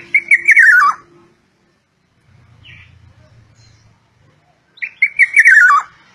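Black-naped oriole (kepodang) calling twice, about five seconds apart. Each call is a quick run of wavering notes that slides down in pitch and lasts about a second.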